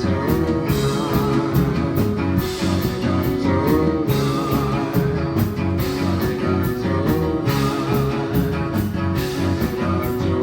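Live rock band (two electric guitars, bass, synth and drums) playing an instrumental passage, with a steady beat and a few sliding notes over it.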